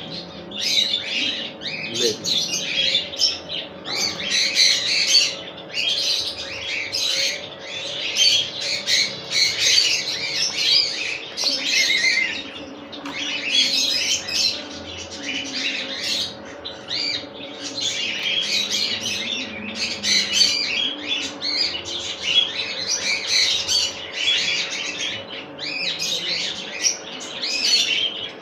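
Many caged birds chirping and squawking at once, a dense, unbroken chatter, with a steady low hum beneath.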